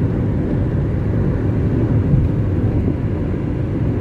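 Steady low rumble of road and engine noise from a car driving along a highway, heard from inside the cabin.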